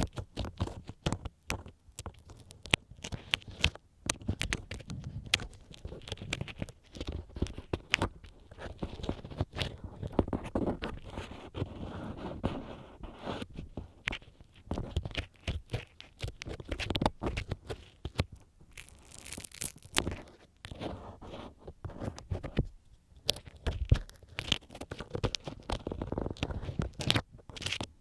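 Ear-cleaning tool scraping and rubbing inside the ear of a binaural dummy-head microphone, heard very close. It makes dense, irregular scratching and crackling with many small clicks.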